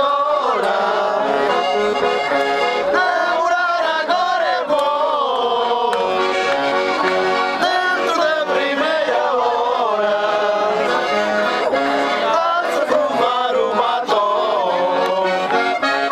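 Accordion playing a traditional folk tune.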